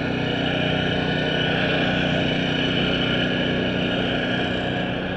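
A motor running steadily, an unchanging drone of fixed pitch.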